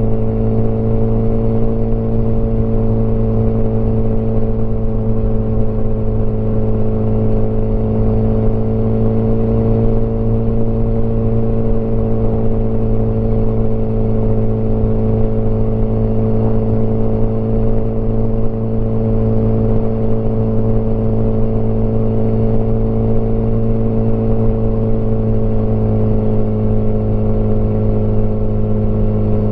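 Motorcycle engine running at a steady cruising speed, its pitch holding nearly constant and easing slightly lower near the end.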